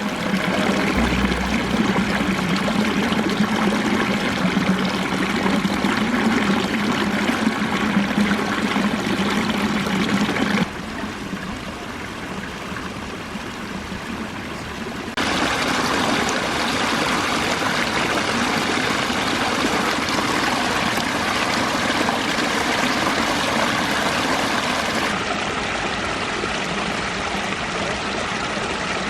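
Water splashing and trickling down a limestone pondless waterfall, a steady rushing noise. It drops quieter for a few seconds about a third of the way in, then comes back.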